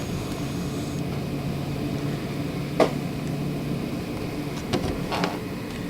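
Strong storm wind blowing, a steady rush of noise with a faint low hum under it for the first half and a single sharp click near the middle.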